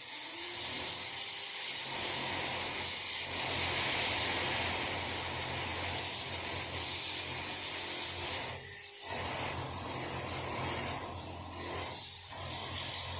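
A small electric motor running under a steady rasping hiss, with two brief dips about nine and twelve seconds in.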